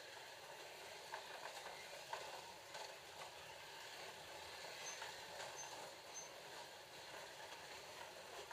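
Ford GT40 slot cars running around the track: a steady whir of small electric motors and gears with scattered light clicks. Three short high beeps come about five to six seconds in.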